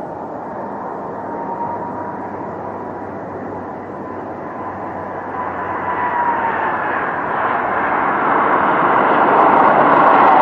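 Airplane approaching on its landing run: a steady engine rush with a thin whine that drops in pitch about halfway through, growing louder as it nears.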